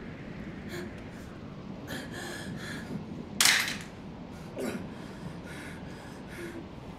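A wounded woman's gasping breaths, a few breathy rasps with one sharp, louder gasp about halfway through.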